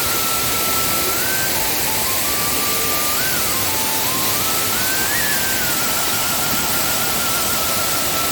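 Steady, loud rush of a waterfall in heavy flow, with a simple single-line melody of background music stepping between notes over it.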